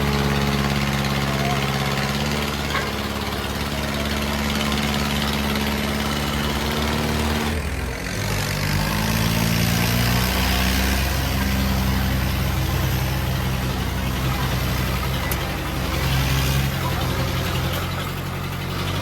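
Tractor engine running steadily; about eight seconds in its note changes and turns heavier and lower.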